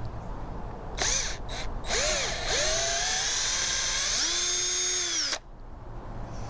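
Electric drill drilling out plastic in the headphone fitting of a metal detector. It starts about a second in, stops briefly twice, then runs steadily with its pitch rising and stepping up once before it stops abruptly.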